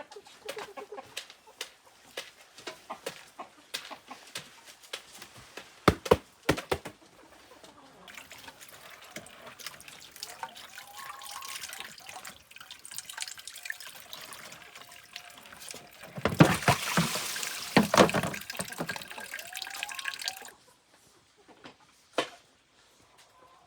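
Water running and splashing, louder for a couple of seconds about 16 seconds in, then stopping suddenly. Before it comes a run of sharp clicks and knocks.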